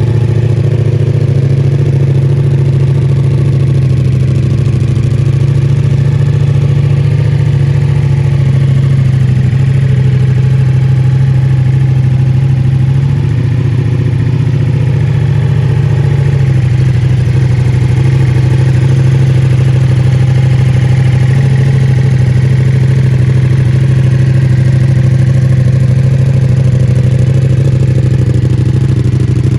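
Ducati Multistrada V4S's 1158 cc V4 engine idling steadily through a full Akrapovic exhaust system, its idle note dipping slightly for a few seconds midway.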